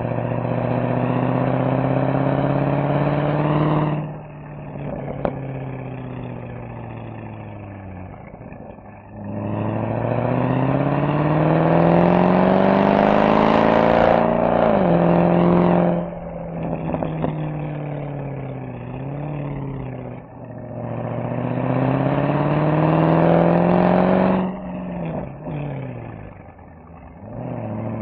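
Mercedes SL63 AMG V8 exhaust under hard acceleration: the engine note climbs in pitch, then drops sharply on each lift-off or shift, about five times. Short pops follow some of the lift-offs.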